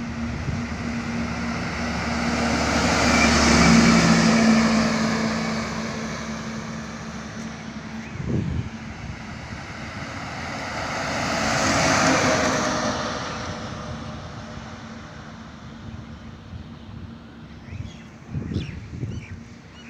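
Highway traffic with two vehicles passing by in turn, the engine and tyre noise of each swelling up and fading away. The first passes about four seconds in and the second about twelve seconds in, with a few short knocks in between and near the end.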